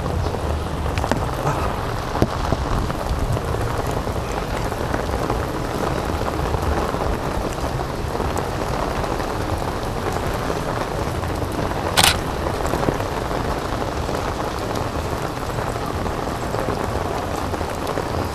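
Steady rain falling and pattering around the microphone, with a single sharp click about twelve seconds in.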